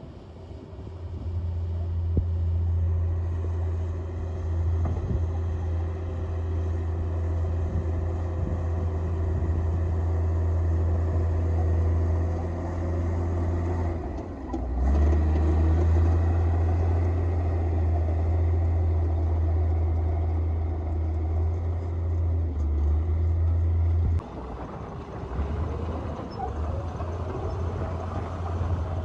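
Komatsu D58P bulldozer's diesel engine running hard with a steady deep drone. It falters briefly about halfway through, comes back a little louder, and eases to a lower, uneven rumble near the end.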